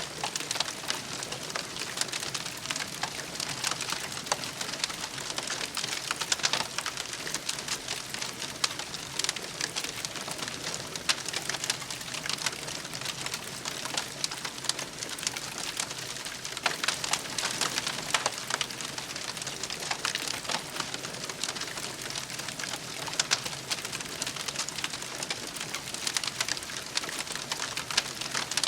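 Wood campfire crackling and popping steadily: a dense bed of small crackles with frequent sharper pops.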